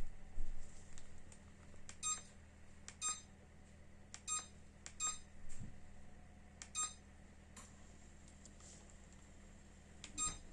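Electric fireplace's control unit giving six short, high beeps at irregular intervals, each just after a faint click, as its settings are changed by button or remote. A steady low hum runs underneath.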